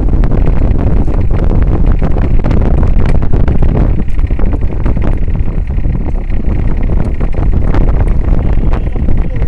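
Wind buffeting the microphone aboard a moving boat: a loud, steady low rumble with frequent crackling gusts, the boat's running noise underneath.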